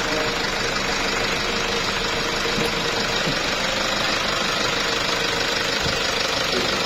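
Toyota Hilux Revo's replacement D-4D diesel engine idling steadily. The freshly fitted engine is running normally, with its injector readings okay.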